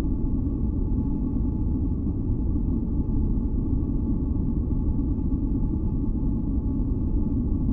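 Steady, deep noise of a relaxation noise track, with a few faint held tones above it and no changes or events.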